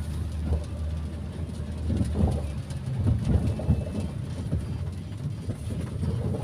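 Inside a moving car in the rain: a steady low engine and road drone, with irregular light knocks and patters on the body, heaviest about two to four seconds in.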